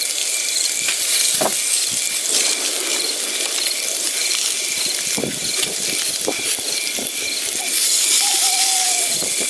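Insects chirping in a steady high-pitched chorus that pulses about twice a second, with a few brief sharp calls and one drawn-out falling whistled call near the end.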